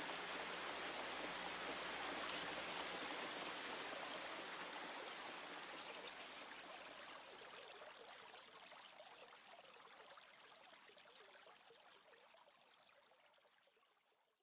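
Waterfall: a steady, even rush of falling water splashing down. From about the middle it gradually fades out, ending in silence.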